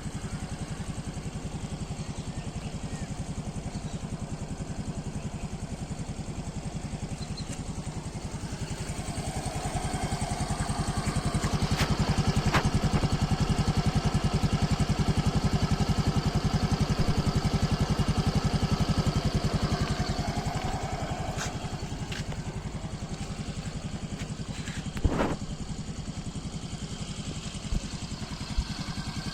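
Yamaha RayZR 125 Hybrid scooter's 125 cc single-cylinder engine idling, then revved up about nine seconds in and held at raised revs for around ten seconds before dropping back to idle. A couple of short clicks near the end.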